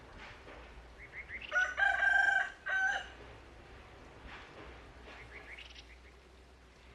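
Rooster crowing once: a few short rising notes lead into a long held call with a brief break near its end, lasting about a second and a half. Fainter bird chirps follow.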